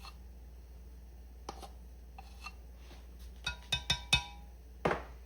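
A measuring spoon clinking against a container: a few sharp taps with a brief metallic ring, most of them in a quick cluster past the middle, then a duller knock near the end.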